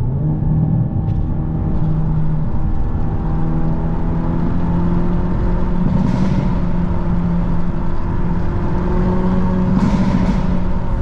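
Car engine and road noise heard from inside the cabin while cruising on a highway: a steady drone whose pitch steps up slightly at the start. There are two brief swells of hiss, about six and ten seconds in.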